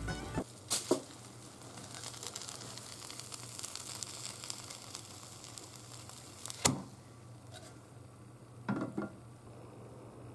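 Daikon mochi frying in an oiled square tamagoyaki pan, sizzling, with a few small clicks. About six and a half seconds in there is a sharp knock. After that the sizzle is gone and two soft knocks follow near the end.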